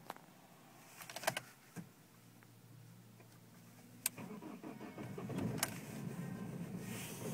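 BMW E46 320Cd's four-cylinder diesel engine being started from cold: a few clicks and a brief low whirr, then the engine catches about four seconds in and runs louder with a rough, uneven idle, typical of this engine's cold start.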